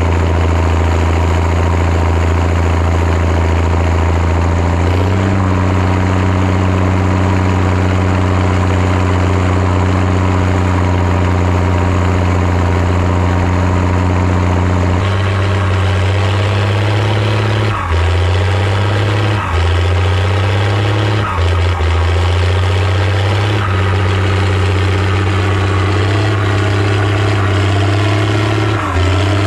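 Zetor ZTS 16145 tractor's turbocharged diesel engine running hard while pulling a cultivator deep in the soil. Its note steps up about five seconds in and drops about halfway through, then the revs dip briefly several times in the second half.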